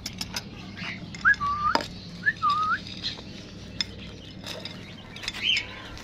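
Two short whistled bird calls, each dipping and then rising in pitch, with sharp clicks and taps around them and fainter chirps later.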